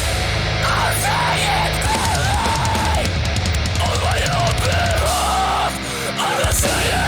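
Hardcore band recording: shouted vocals over distorted guitars, bass and drums. The low end cuts out briefly a little before six seconds in, then the band comes back in.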